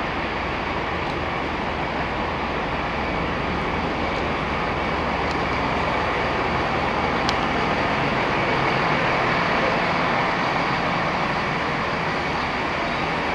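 Steady running noise of passenger trains standing at a station platform, their engines and ventilation humming evenly.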